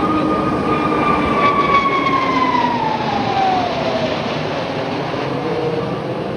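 Jet engine of a passing Aermacchi MB-339 jet, a loud roar with a whine that holds steady, then drops in pitch over a couple of seconds as the jet goes by.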